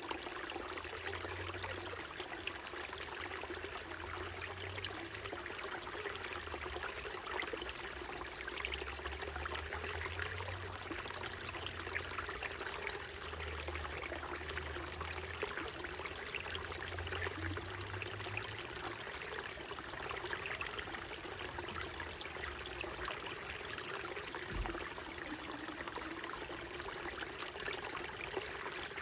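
Small mountain stream running steadily over its bed: an even rush of water. A low rumble comes and goes during the first two-thirds, and there is one brief low thump near the end.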